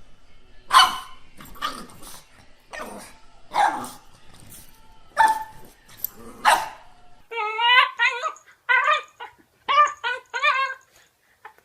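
A dog barking six times, sharp single barks a second or so apart. From about seven seconds in, a cat gives a run of short, wavering meows in quick succession.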